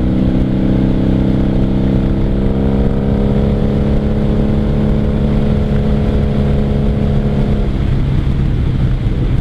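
Motorcycle engine with aftermarket Jardine exhaust pipes, running steadily under way. The engine note holds even, then turns less even for about the last second and a half.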